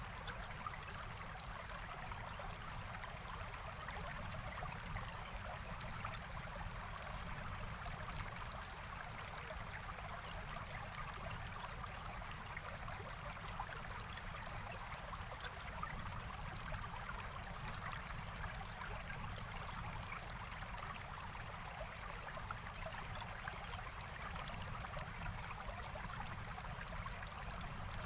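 Forest stream flowing, a steady, even water noise with no breaks.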